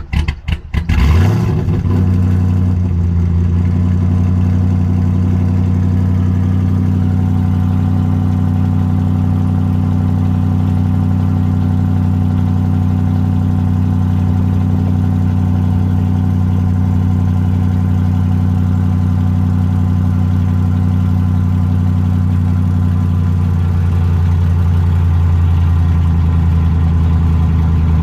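Freshly swapped supercharged Hellcat 6.2 L HEMI V8, with an aftermarket cam and no tune, on its first start. It stutters unevenly for about a second, rises in pitch once, then settles into a steady idle that gets slightly louder near the end.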